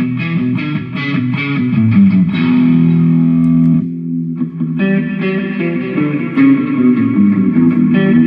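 Jackson electric guitar played through a Mooer GE150 multi-effects unit: a run of picked notes with a short break about four seconds in before the playing resumes.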